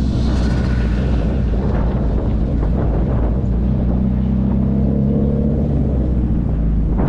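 Car engine running and a steady low road rumble while driving, with the engine note rising a little about four seconds in.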